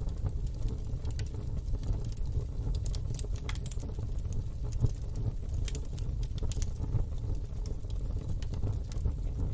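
Wood fire in a fire pit crackling, with scattered sharp pops that come thickest in the middle, over a steady low rumble.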